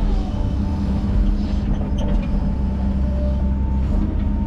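Diesel engine of an earthmoving machine running steadily under work, with a steady low drone.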